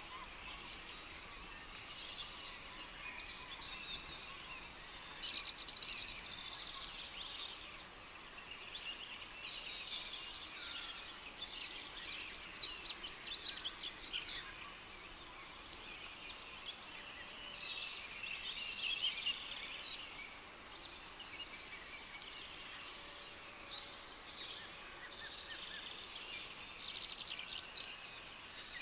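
Cricket chirping in a steady rhythm of about three high chirps a second, stopping briefly around the middle, with birds calling and trilling in the background.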